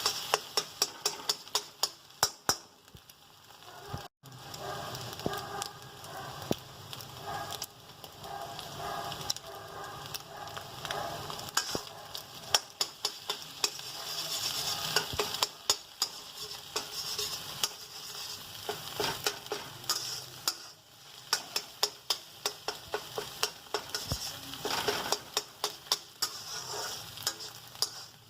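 Food sizzling as it fries in a pan, stirred with a utensil that strikes and scrapes the pan in many sharp clicks. The sound briefly cuts out about four seconds in.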